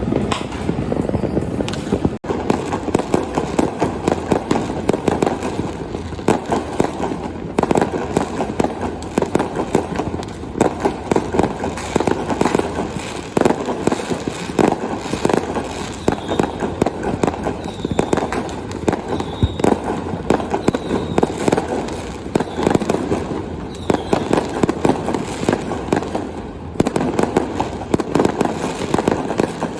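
New Year fireworks going off without a break: a dense barrage of bangs and crackling, with a few short high-pitched tones now and then in the second half.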